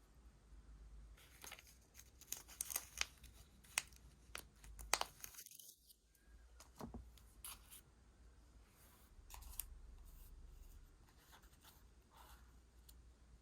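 Paper being cut and torn by hand, faint. A dense run of crisp crackles and snaps comes in the first few seconds, then scattered quieter ones.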